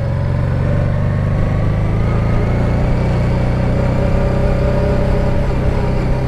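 Honda Deauville's 650 cc V-twin running at a steady engine speed as the motorcycle climbs a mountain road, with a constant hum and steady road and wind noise.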